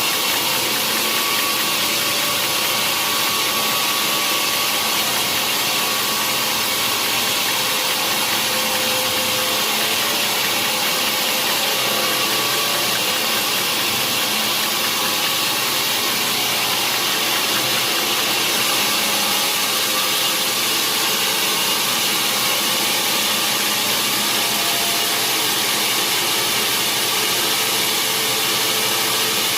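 Sawmill machinery running steadily: a continuous, even mechanical noise that does not change.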